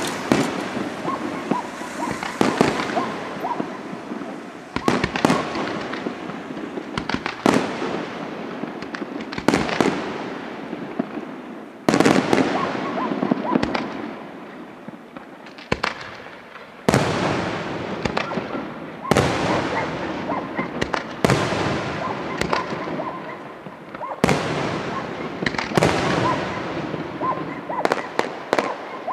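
Aerial fireworks shells bursting one after another, a sharp bang about every two seconds, each with a fading tail.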